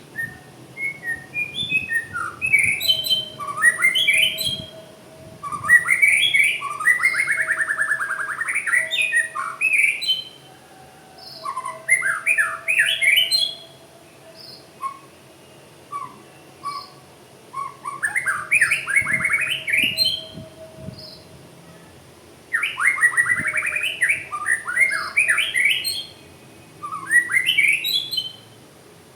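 A murai songbird singing: loud phrases of fast rattling trills and sweeping whistled notes, each lasting a second or three, repeated after short pauses.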